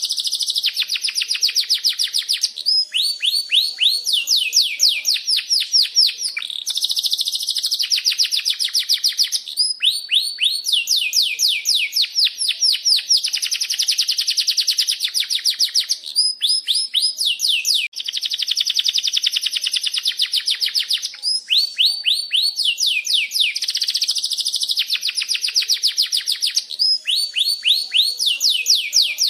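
Canary singing a long, unbroken song. Fast trills of quickly repeated downward-sweeping chirps switch to a new note type every second or two, alternating with rolling, buzzy passages.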